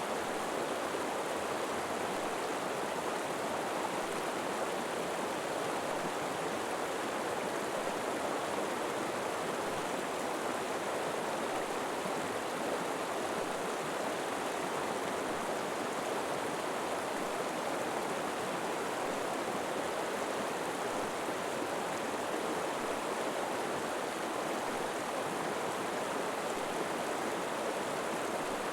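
River water flowing steadily over rocks, a constant even rush with no breaks.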